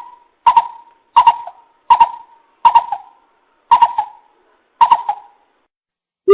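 Coucal (bìm bịp) lure call: seven evenly spaced notes, about one every 0.7 seconds, each starting sharply and fading briefly.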